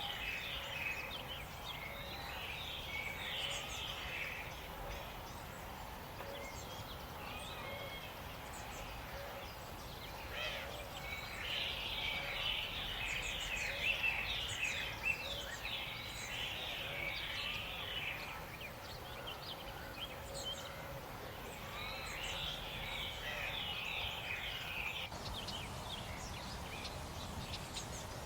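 Outdoor ambience with birds chirping in bouts of quick, repeated high notes over a steady background hiss.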